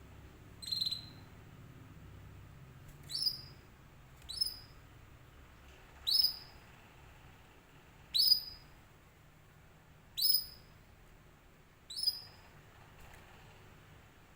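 Domestic canary giving short rising call notes, seven in all, one every second or two, each sweeping sharply upward and ending on a brief high note.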